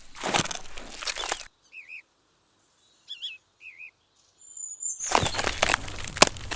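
Scraping and clattering from hand work with small tools and materials, in two stretches with a few sharp clicks. Small birds chirp briefly in the pause between them.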